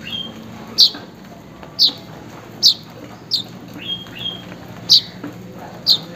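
Weaver bird (manyar) calling to rivals or mates: a series of sharp, high, downward-sweeping chip calls about once a second, with a few short flat chirps in between.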